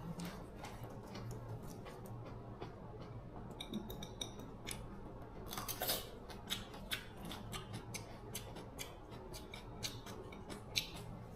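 Irregular small clicks and taps of hand tools and small parts being handled at a workbench, over a low steady hum, with a brief high whine about four seconds in.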